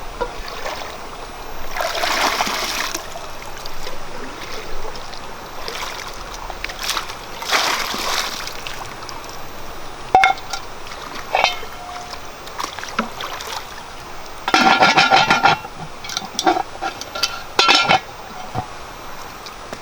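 Water splashing and sloshing over a steady background of running water. Later come a few short ringing clinks, the loudest a rapid run of them about three quarters of the way through.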